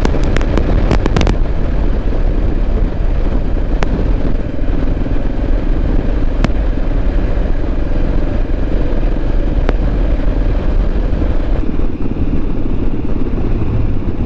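Motorcycle engine running steadily while being ridden, with a few sharp clicks over it, most of them in the first second.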